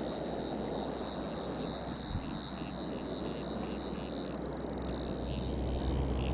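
Mountain stream rushing steadily, with wind rumbling on the microphone and growing stronger toward the end. A thin steady high tone runs over it.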